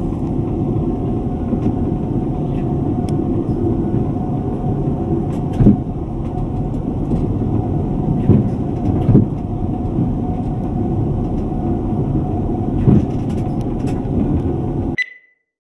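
Steady low rumble of an ICE high-speed train in motion, heard inside the passenger car, with a few short knocks partway through.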